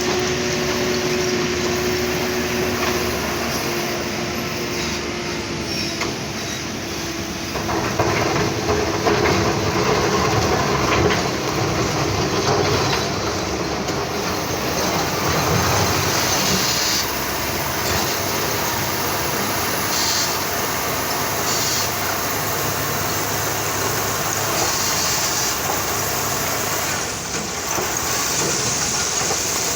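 Wheel loader's diesel engine running hard, with rocks clattering and rattling as stone is loaded, loudest from about 8 to 11 seconds in.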